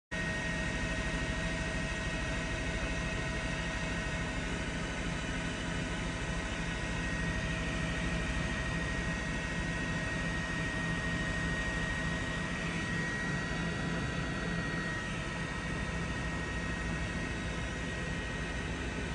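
Steady drone of jet aircraft engines with a constant high whine over it, unchanging throughout, with no bang or blast.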